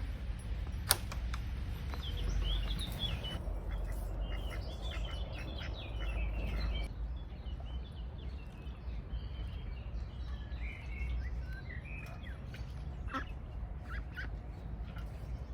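Birds chirping and twittering in many short, high calls over a steady low rumble, with a single sharp click about a second in.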